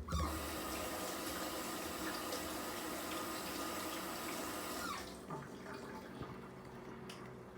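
Kitchen tap running into a sink for about five seconds, then turned off.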